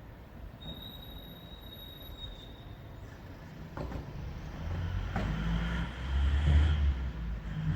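Low rumbling noise that grows louder over the last few seconds, with a few knocks in it and a thin, high steady tone in the first seconds.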